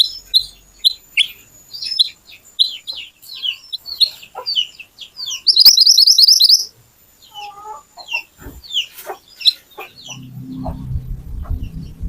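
Mantenan (kuniran) songbird singing: a fast series of sharp, high chirping notes, then a loud rapid trill about six seconds in, followed by scattered calls. A low rumble comes in near the end.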